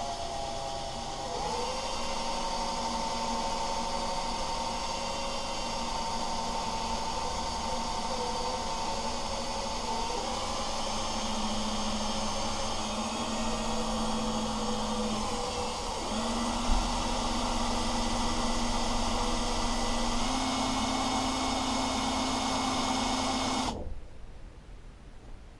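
Electric drill running as it bores a hole through a metal mower handlebar tube, its motor pitch stepping up and down a few times under load. It stops suddenly near the end.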